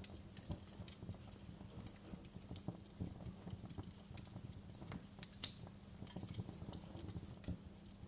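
Wood fire crackling in a fireplace: irregular small snaps and pops, with one sharper pop about five and a half seconds in, over a low steady rumble.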